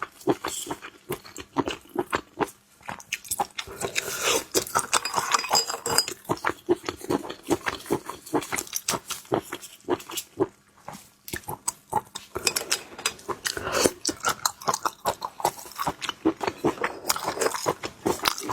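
Close-miked eating of shellfish: wet, irregular chewing, biting and mouth clicks, with bursts of crunching.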